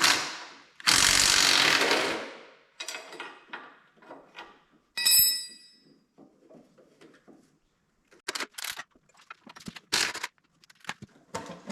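A power tool runs in one burst of about a second, taking out a bolt. About five seconds in, metal clinks with a short ring, followed by scattered clicks and knocks of tools on metal.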